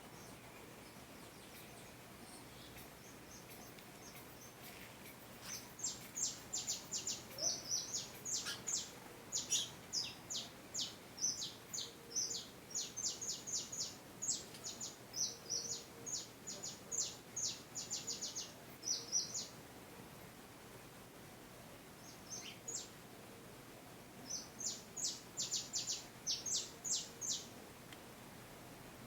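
A bird calling in long runs of short, high, downward-slurred chirps, several a second, over a faint steady background hiss. One run goes on for over ten seconds; a second, shorter run follows after a pause.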